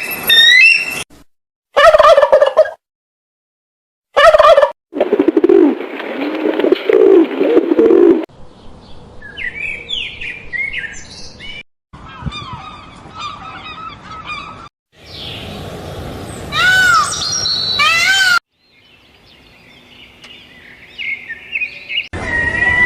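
A string of short animal call recordings, mostly birds, cut one after another with abrupt breaks and brief silent gaps. Lower repeated calls come a few seconds in, followed by quick chirps and rising and falling whistled bird calls.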